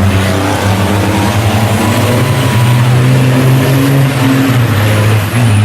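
Several 1000 bhp turbo-diesel racing trucks running hard on the circuit. Their engine notes are loud and steady, stepping up and down in pitch a few times.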